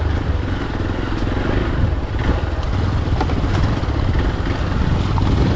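Motorcycle engine running steadily as the bike is ridden along a dirt road.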